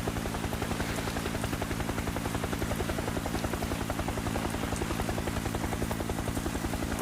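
Helicopter rotor and engine running steadily: a rapid, even blade chop over a constant hum.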